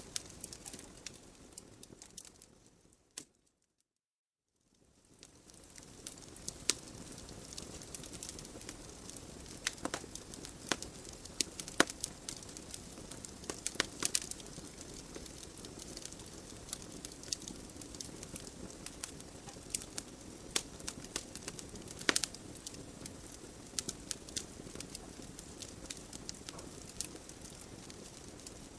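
Wood fire burning in a fireplace: irregular sharp crackles and pops over a soft steady hiss. About three seconds in, the sound fades out to silence for about a second and then fades back in.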